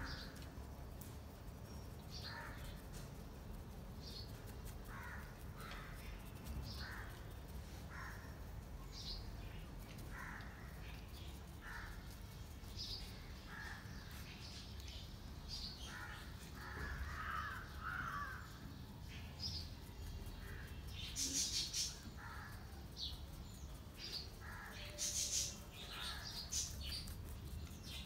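Faint bird calls, short and scattered, coming every second or so, with a couple of louder ones near the end, over a low steady hum.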